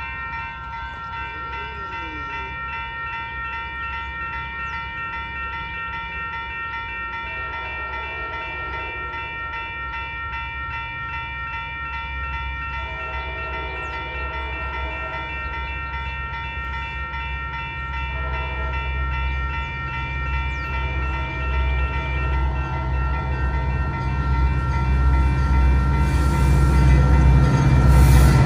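A grade-crossing bell rings steadily while an approaching Metra commuter train's diesel locomotive sounds its horn in several blasts, two long and one short. The train's rumble grows louder until the locomotive passes close by near the end.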